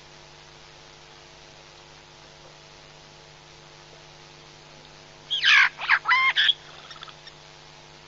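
A bird gives a quick run of about five loud, harsh calls lasting just over a second, a little past the middle, over a steady electrical hum and hiss from the camera's audio feed.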